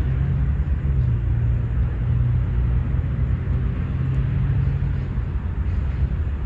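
Low rumble of a motor vehicle's engine with a steady hum that drops away about five seconds in.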